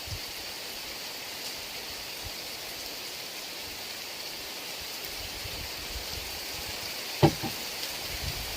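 Heavy rain falling steadily as an even hiss. About seven seconds in there is one sharp knock, followed by a couple of fainter ones.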